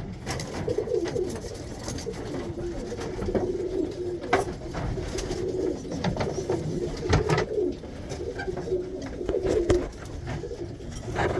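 Tippler pigeons cooing in a loft, a steady run of low warbling coos, with a few sharp knocks about four and seven seconds in.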